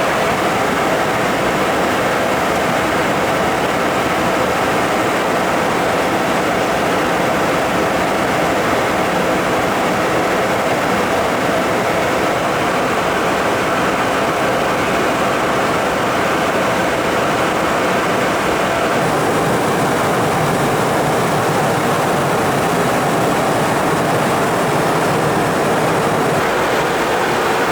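Steady rushing noise of an Embraer Phenom 300 business jet in flight, its twin turbofans and the airflow heard as one even roar. The upper part of the noise eases slightly about two-thirds of the way through.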